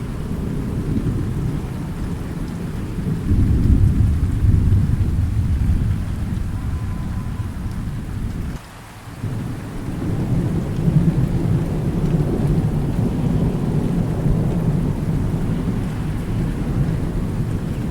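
Thunderstorm: deep rolling thunder over steady rain. The rumble swells louder about three seconds in, drops away briefly about halfway, then builds again.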